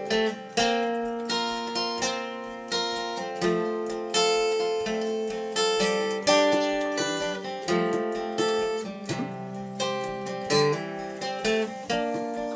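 Acoustic guitar playing chords in a steady strumming rhythm, an instrumental intro to a song.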